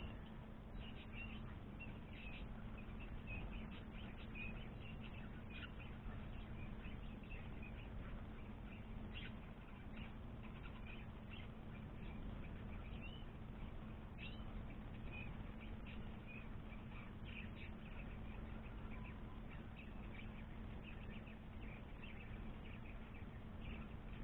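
White-rumped shamas at the nest giving many short, high chirps and peeps, scattered irregularly, over a steady low electrical hum.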